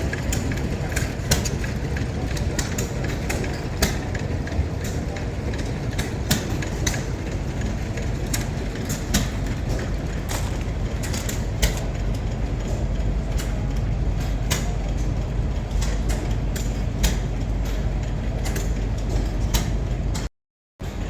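Steady low rumble of a running engine, with irregular sharp clicks and knocks over it, cutting out abruptly near the end.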